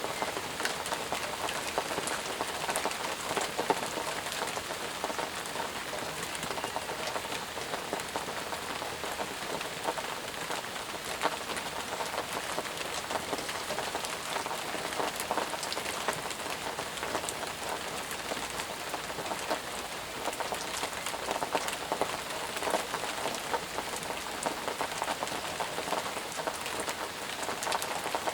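Steady, heavy rain falling, with many close individual drops pattering on surfaces. It keeps an even level, with no thunder.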